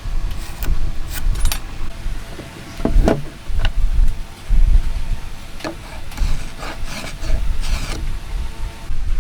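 Scattered knocks and clicks of hand tools and timber being worked, with a short scrape near the end, over a low wind rumble on the microphone.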